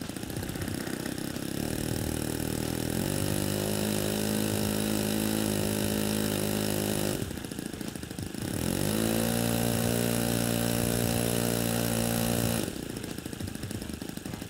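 Saito .62 four-stroke glow engine in an RC airplane being run up: it idles, is throttled up to a steady high speed about three seconds in, drops back briefly, rises again in a quick glide and holds, then falls back to idle near the end. This is the pre-flight throttle run-up.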